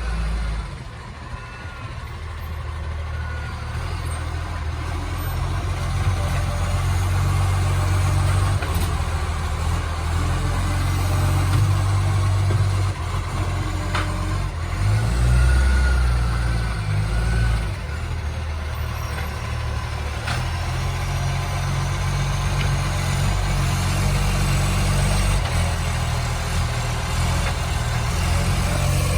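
Garbage truck's diesel engine running with a massive exhaust leak, a low rough engine note that rises and falls several times as the truck works.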